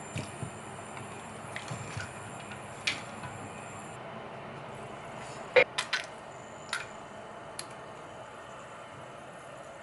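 A handful of short clicks and light knocks over a steady background hiss, the sharpest cluster about halfway through.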